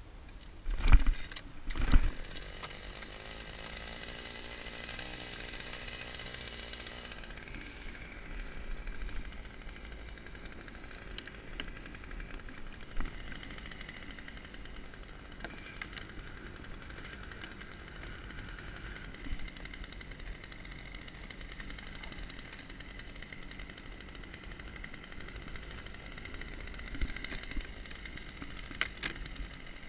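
Small engine running steadily with a high whine, opened by two loud knocks about one and two seconds in.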